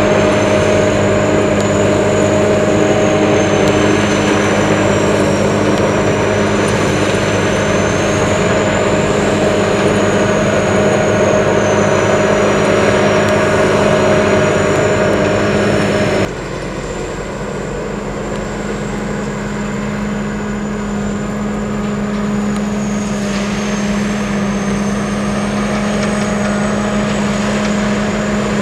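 Sakpattana SS-200 mini combine harvester running steadily while harvesting corn, with the engine and threshing machinery humming at constant speed. About halfway through the sound suddenly drops in level, then slowly grows louder again as the machine draws closer.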